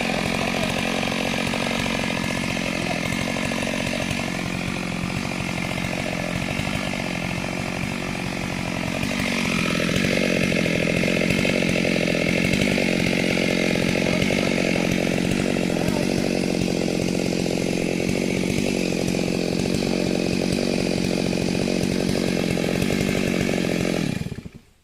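Chainsaw engine running steadily; about ten seconds in its pitch shifts and it gets louder, and it stops abruptly near the end.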